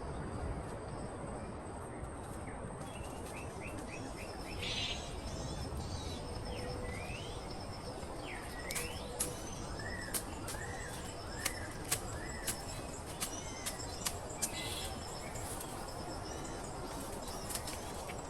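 Birds chirping in short, repeated arching calls over a steady background of outdoor noise, with a series of sharp clicks about halfway through.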